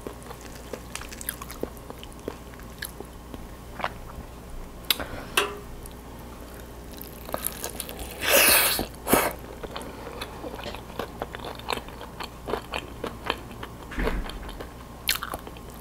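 A bite into crispy fried chicken coated in stretchy melted cheese: a loud crunch about eight seconds in, then chewing with small clicks, close to a clip-on microphone. Faint clicks are heard before the bite.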